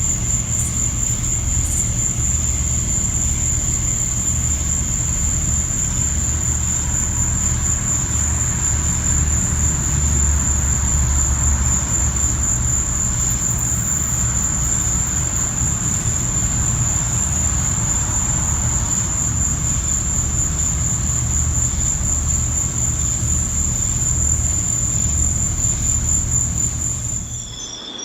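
A continuous high-pitched insect trill, like crickets, held at one steady pitch over a steady low rumble. Both stop together near the end.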